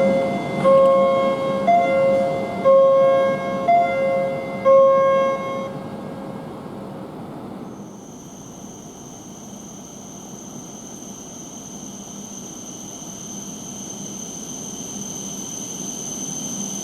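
A station platform chime rings a repeating two-note ding-dong about once a second over the low rumble of the station. It stops about six seconds in, leaving a quieter hum, and a steady high-pitched whine comes in after about eight seconds.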